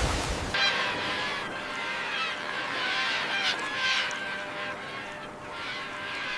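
A flock of birds calling, many short honking calls overlapping. A loud low whoosh dies away in the first half second.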